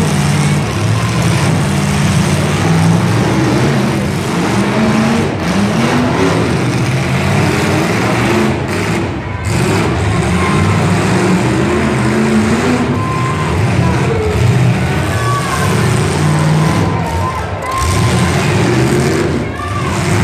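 Demolition derby cars' engines running and revving loudly, pitch rising and falling as the cars push and maneuver on the dirt track, with crowd chatter underneath.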